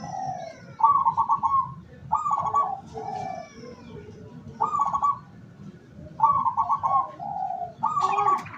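Zebra doves (local perkutut) cooing: about six phrases of rapid, rolled coo notes, each under a second long, with short pauses between them.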